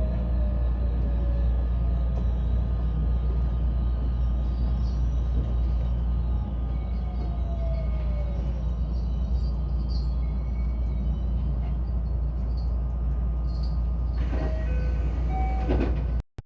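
Electric train running close by: a heavy low rumble of wheels and running gear, with a falling motor whine as it slows. Near the end come short squeals and clicks, then the sound cuts off abruptly.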